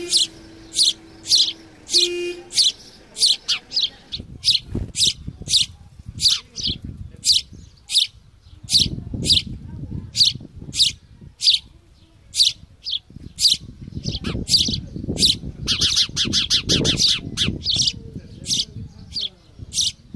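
A small bird chirping sharply and steadily, about two chirps a second, with low rustling and bumping underneath from about four seconds in. A low steady hum runs at the start and stops after about two and a half seconds.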